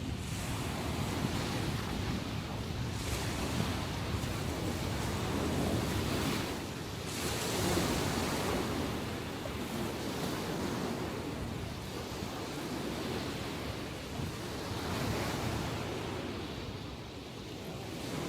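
Sea waves breaking and washing on the shore in a steady, continuous surf that swells and eases, the strongest surges about three, seven and fifteen seconds in. A rough, post-typhoon sea, with some wind on the microphone.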